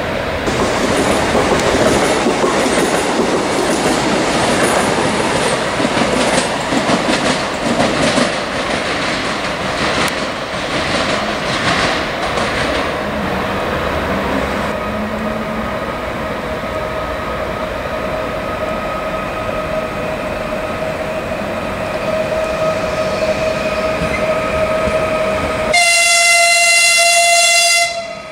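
Electric multiple unit running into a station: wheels clattering over the rail joints with a steady electric whine, the clatter dying away about halfway. Near the end a train horn sounds for about two seconds.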